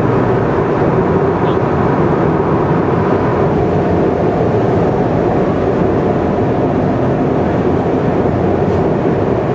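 Steady road and engine noise of a car travelling at expressway speed, an even rushing hum with no change in pace.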